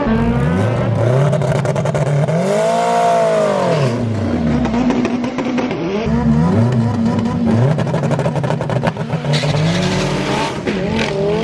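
Drag-racing car engines revving hard, their pitch climbing and dropping again and again. The longest rise and fall comes about two to four seconds in.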